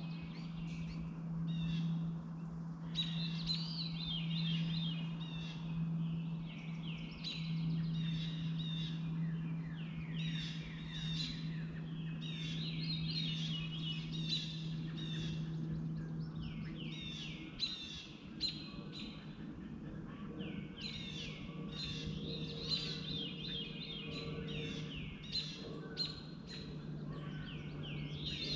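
Birds chirping in quick runs of short, downward-sweeping notes, over a steady low hum.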